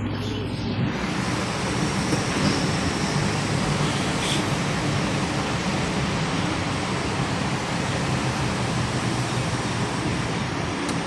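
Steady road and engine noise of a Mazda 3 1.5L car on the move, an even rushing sound over a low engine hum.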